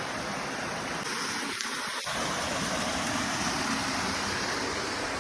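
Waterfall and creek cascade pouring into a pool, a steady rush of water, with a faint click about two seconds in.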